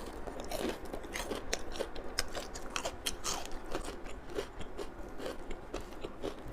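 Biting into and chewing a crispy fried chicken cutlet close to the microphone, with many sharp crunches of the fried coating in quick succession.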